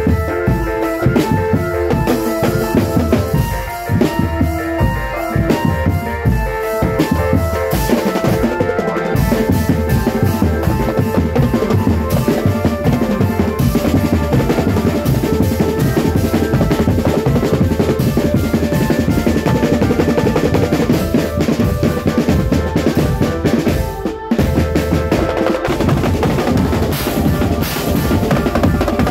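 Marching drum band playing: bass and snare drums beating a dense, steady rhythm. A melody rings over the drums for the first eight seconds or so, and the playing breaks off briefly near the end.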